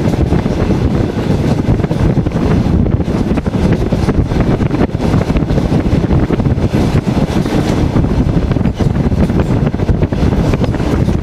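Loud, steady wind buffeting the microphone at the window of a moving passenger train carriage, over the low rumble of the train running on the rails.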